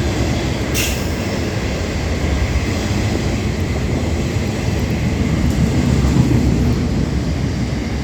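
Intermodal freight train's wagons rolling through at about 80 km/h without stopping: a steady, heavy rumble of wheels on rail. A brief high-pitched squeal comes about a second in.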